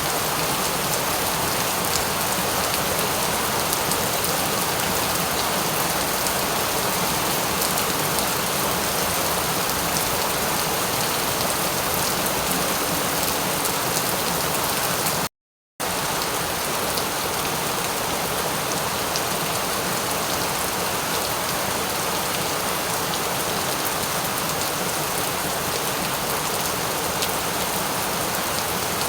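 Steady rain falling, an even hiss flecked with the fine ticks of single drops. It cuts out completely for about half a second midway, then resumes unchanged.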